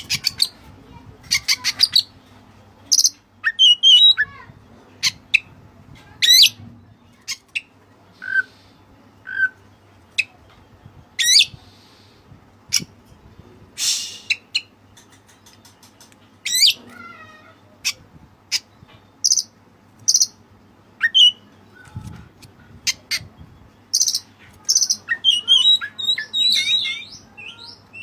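Oriental magpie-robin (kacer) singing: a long run of short sharp notes and quick sweeping whistles, broken by brief gaps, with a denser twittering run near the end.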